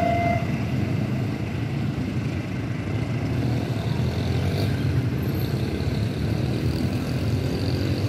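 Steady low rumble of a passenger-style parcel train's coaches rolling away along the track, after the last car has passed. A brief high tone cuts off just after the start.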